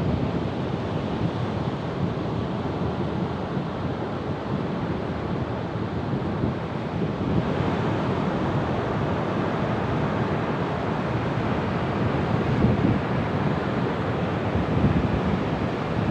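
Ocean surf: waves breaking and washing in a continuous rush that swells a little about halfway through, with wind buffeting the microphone.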